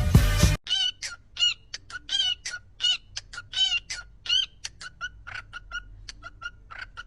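Background music cuts off about half a second in. After that, a bird gives a long run of short, pitched calls, several a second, some louder than others.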